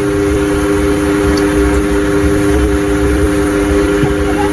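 A steady drone of several pitches held together without a break, over a low rumbling background.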